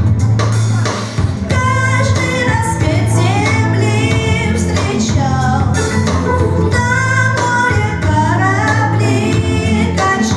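A solo singer sings a melody with wavering, vibrato-like held notes over instrumental accompaniment with a steady bass line.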